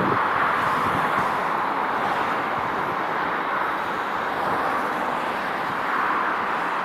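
A train running through the station with a steady rushing rolling noise that swells and eases a few times, with a few low knocks in the first second.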